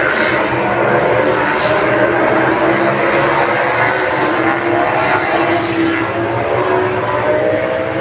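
Engine drone running steadily, its pitch creeping slightly upward near the end.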